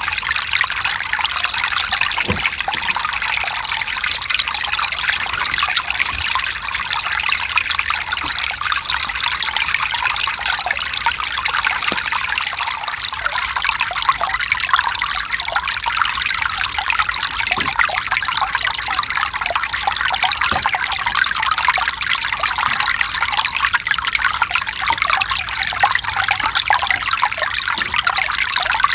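Mountain stream running over rocks: a steady trickling and splashing rush of water with no breaks.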